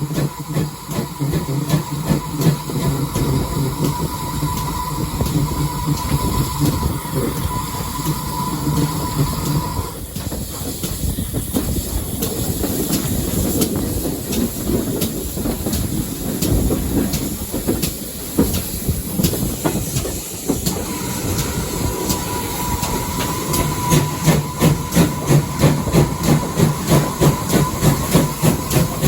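Steam-hauled heritage train running along the line, heard from on board, with a continuous clatter of wheels over the track. Near the end the rhythm firms into a steady beat of about three a second.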